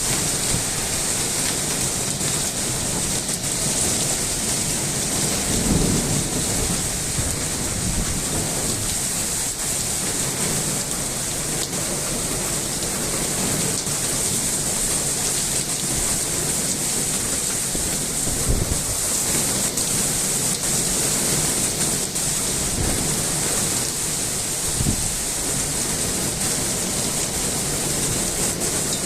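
A heavy rainstorm: dense, steady rain pouring down, with low rumbles now and then.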